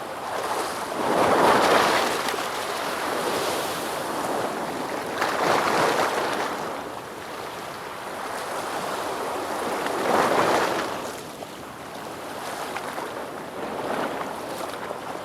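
Ocean waves breaking and washing back, each one swelling up and falling away about every four to five seconds: three strong waves and a weaker one near the end.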